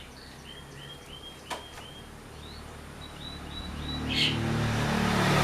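Long-tailed shrike (cendet) calling: runs of four or five short, high, evenly spaced chirps, then a single louder chirp about four seconds in. A low rumble, like an approaching vehicle, grows louder over the last couple of seconds.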